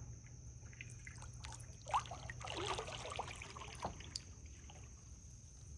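Kayak paddle in still swamp water: water dripping and trickling, with a cluster of small splashes about two to three and a half seconds in and scattered light ticks.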